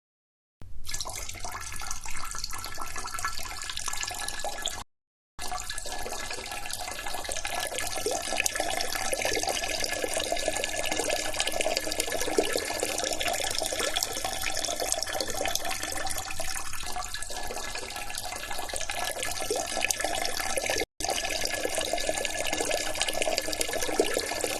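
Steady rushing, splashing noise like running water. It breaks off into dead silence briefly twice, once about five seconds in and once near the end.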